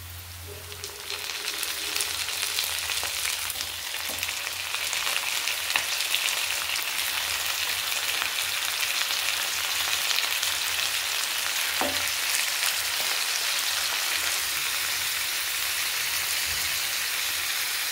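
Chicken pieces, just added to hot oil with fried onions, sizzling hard in a pan. The sizzle swells about a second in and then holds steady, with a few light clicks.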